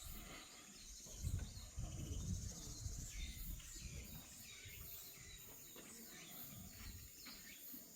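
Forest ambience: scattered bird chirps and a steady high insect drone, with some low rumbling noise in the first few seconds.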